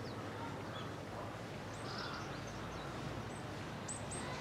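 Small birds giving scattered short, high chirps over a steady low background of outdoor noise.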